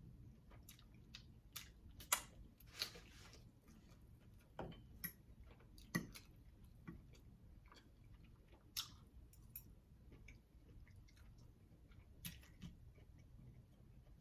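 Close-miked eating sounds: quiet chewing with scattered short wet clicks and lip smacks.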